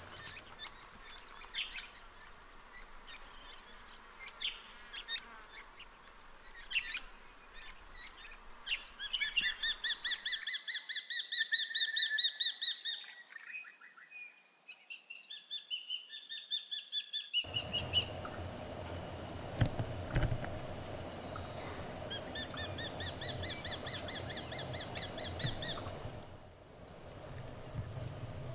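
Small wild birds calling: sharp separate chip notes at first, then fast rattling trills a few times, over a changing background of outdoor noise where clips are joined.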